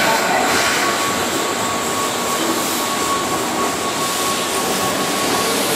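Keihan 6000 series electric train running past and away along the tracks: a steady rumbling noise with a thin, steady high tone that holds from about a second in until near the end.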